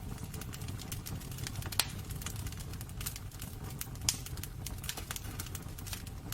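Wood fire burning in a fireplace, crackling with frequent irregular snaps over a low steady rumble of the flames. Two sharper, louder pops come about two seconds and four seconds in.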